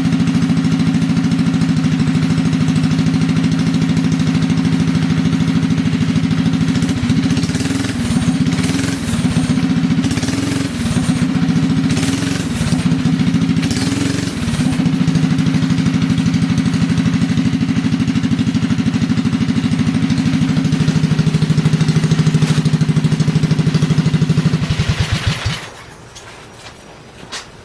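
Small mini bike engine running steadily, its speed wavering up and down for several seconds in the middle. About 25 seconds in it slows and stops.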